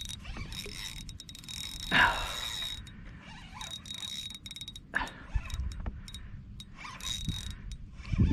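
Fishing reel working during the fight with a hooked smallmouth bass, with mechanical clicking and whirring as line is reeled and given. It goes on and off in short runs, with brief louder sounds about two and five seconds in.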